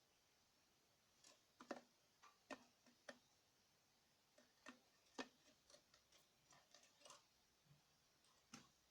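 Faint, irregular clicks and taps, more than a dozen of them spaced unevenly, from a small cage bird moving about inside its breeding cage.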